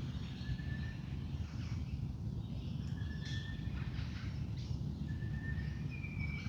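Wild birds in a dawn chorus: short, level whistled notes repeated every second or two, with a few quick chirps in the middle, over a steady low rumble.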